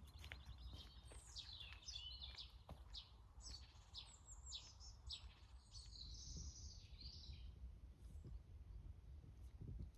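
A songbird singing faintly: a run of quick, high notes sliding downward, ending in a short buzzy trill, over a low steady rumble of wind or microphone noise.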